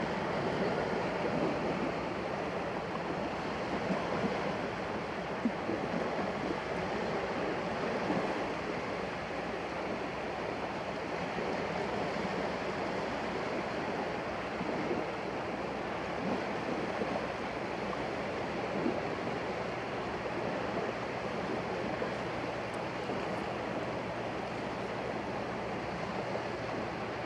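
Surf washing onto a sandy beach: a steady, unbroken rush of waves.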